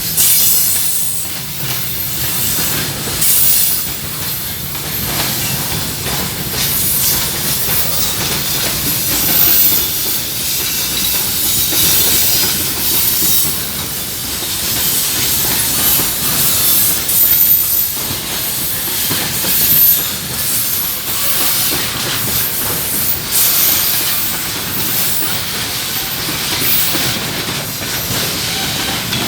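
Freight train rolling past, its steel wheels clattering irregularly over the rails under a steady hiss.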